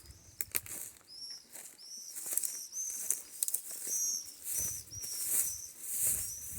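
A small bird calling outdoors in woodland, a run of short high chirps about two a second, over a light rustling hiss.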